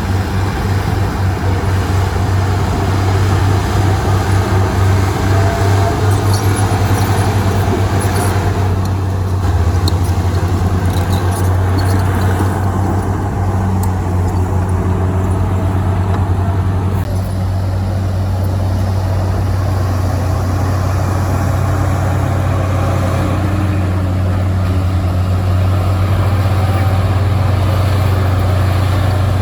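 Heavy diesel earthmoving machinery, bulldozer and dump-truck engines, running steadily with a low drone, plus a few brief high clinks about seven to twelve seconds in.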